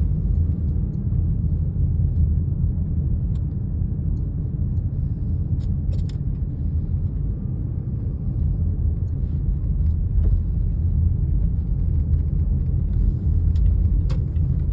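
Snowstorm wind buffeting the microphone: a steady low rumble, with a few faint ticks.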